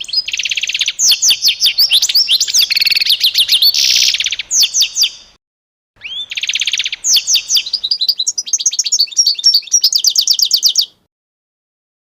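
A songbird singing two long, fast phrases of varied trills and chirps, with a short pause about five seconds in.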